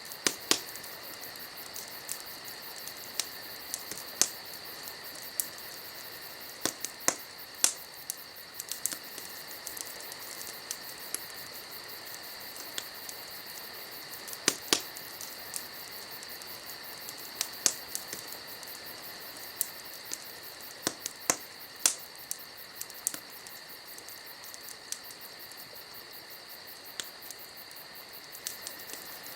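Wood fire crackling, with sharp pops at irregular intervals, over a steady high insect chorus.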